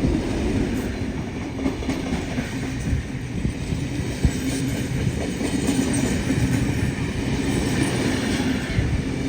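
A train running on the rails: a steady low rumble with a constant hum, and wheels clicking over the rail joints.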